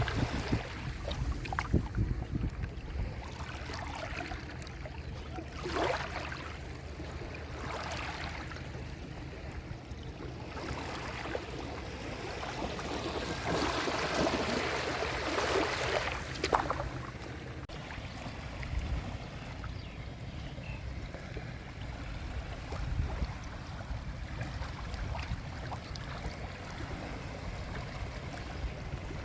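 Small sea waves washing onto the shore, several swelling washes in the first half, over a steady low rumble of wind on the microphone.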